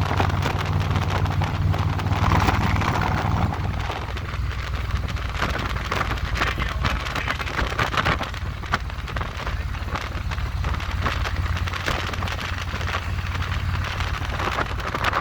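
Harley-Davidson V-twin motorcycle engine running at road speed, heard under heavy wind buffeting on the microphone. The engine's low note eases off about three and a half seconds in.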